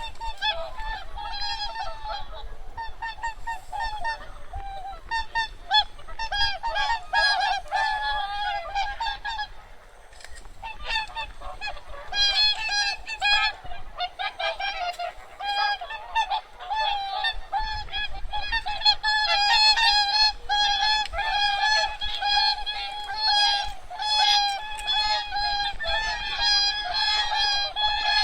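A large flock of wild geese honking, many calls overlapping without pause. The calling thins briefly about ten seconds in, then grows denser and louder in the second half.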